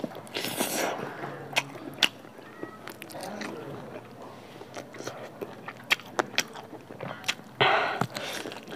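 Close-miked eating of a large piece of pork in spicy curry gravy with rice: wet mouth clicks and smacks while chewing, with a bite into the meat about half a second in and another near the end.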